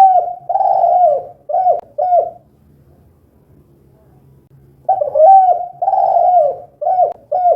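Spotted dove (tekukur) cooing, the 'kuk 2' call: two phrases about five seconds apart. Each phrase is a run of coos ending in two short clipped 'kuk' notes.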